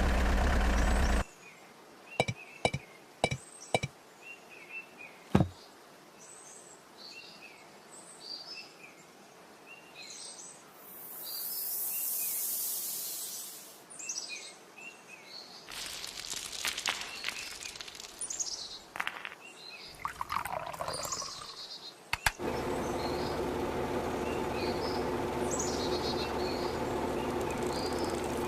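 Small birds chirping repeatedly. A loud steady noise cuts off just over a second in, followed by a few sharp clicks and a hiss that swells and fades midway. About three-quarters of the way through, a steady machine hum with several held tones starts up.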